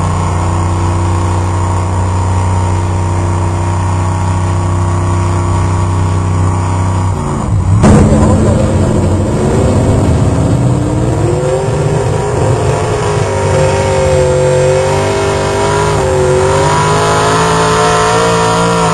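A pulling truck's engine running loud and steady at first. About eight seconds in there is a sharp bang, and then the engine's pitch climbs over a few seconds and holds high with small wavers, rising again near the end.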